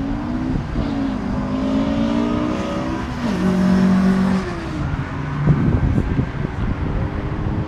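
Car engine and exhaust revving and accelerating as a car pulls away: the engine note climbs, holds briefly, then drops and climbs again. A cluster of sharp crackles comes a little past halfway.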